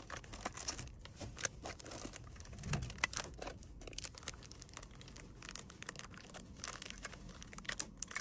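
Crinkling and rustling of packaging being handled, with many short clicks and taps as small items are picked up and set down.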